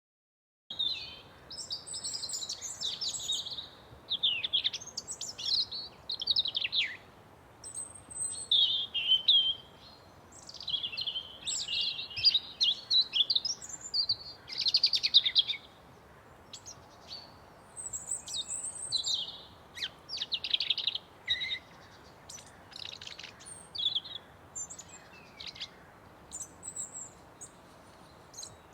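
Several songbirds singing and chirping, with quick trills and short high notes overlapping, over a faint steady background hiss. It starts abruptly about a second in after a moment of silence.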